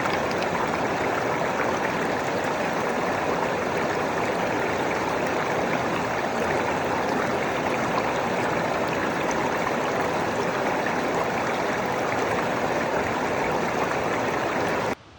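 Steady rushing of water, even and unbroken, that cuts off abruptly near the end.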